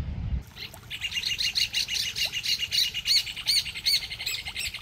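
Birds calling: a fast, steady run of short repeated high notes, several a second, starting about a second in.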